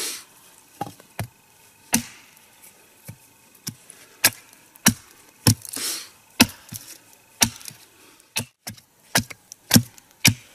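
Sharp, irregular knocks, roughly two a second, as a wooden wedge is hammered into the crack of a log to split it.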